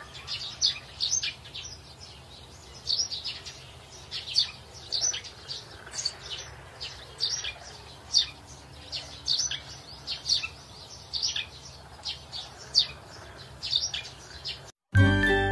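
Small birds chirping: short high chirps in little runs about once a second, over a faint low hum. Near the end the chirping cuts off and music with plucked notes begins.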